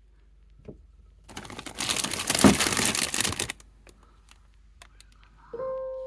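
Crinkling of plastic packaging being handled for about two seconds, then a steady tone starts near the end.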